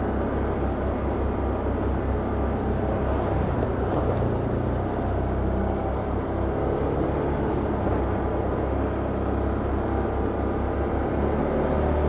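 Can-Am Outlander ATV engine running steadily, getting a little louder near the end.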